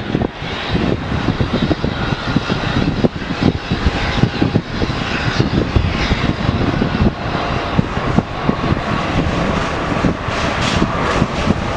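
A departing Boeing 787-9 airliner's jet engines making a loud, steady rumbling roar, uneven and gusty in the low end.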